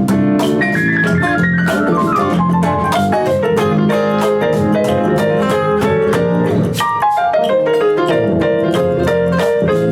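Live rock band playing an instrumental passage: a keyboard plays runs of notes that step down in pitch, twice, over a steady drum beat.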